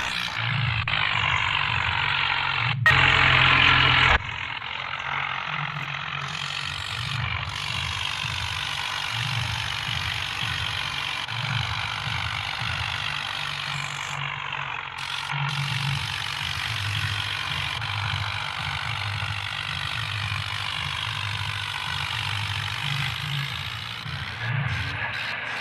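Tractor engine running hard under load, with an uneven low throb and a louder surge about three seconds in that lasts a second or so.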